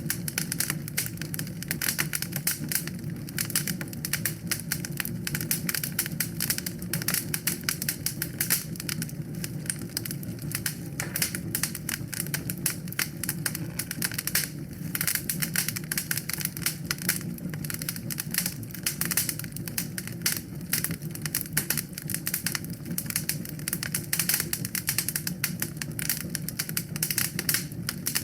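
Wood fire crackling in a fireplace: dense, rapid pops and snaps over a low, steady rumble.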